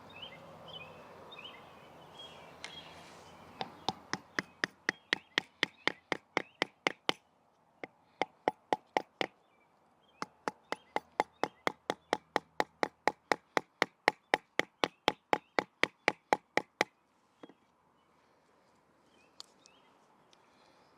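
Batoning: a wooden baton knocking rapidly, about three to four strikes a second, in three runs with short pauses, to split a small piece of wood. Two lone knocks near the end, and faint bird chirps at the start.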